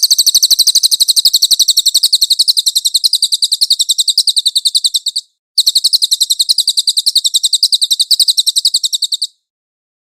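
A cililin bird singing two long, rapid trills of high, evenly spaced notes, about ten a second. The first stops about five seconds in, and after a brief pause the second runs until near the end.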